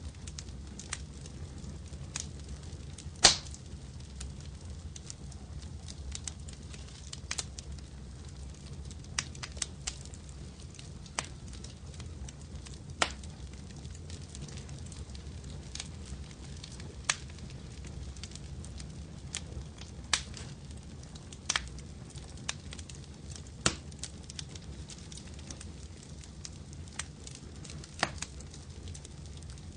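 Wood fire crackling in a fireplace: irregular sharp pops and snaps over a low, steady rumble, with one louder pop about three seconds in.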